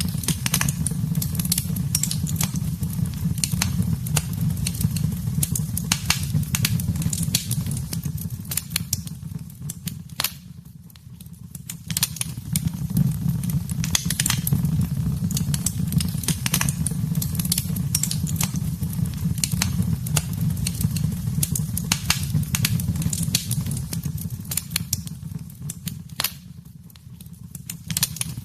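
Wood fire in a fireplace crackling, with frequent sharp pops over a steady low rumble of the flames. It quietens briefly twice, near the middle and near the end.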